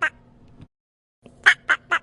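Duck quacking in quick runs of short calls, about five a second, with a silent break between the runs.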